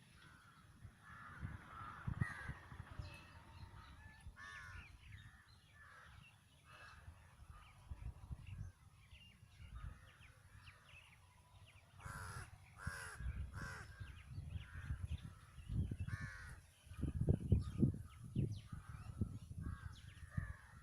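Crows cawing repeatedly, many short calls one after another, with low thumping and rumbling noises that grow loudest about three-quarters of the way through.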